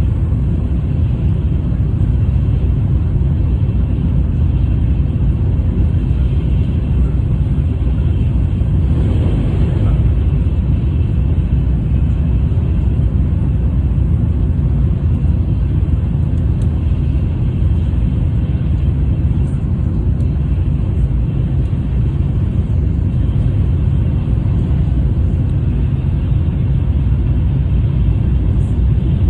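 Steady low rumble of a Tokaido Shinkansen train running at speed, unbroken, with a slight swell about nine seconds in.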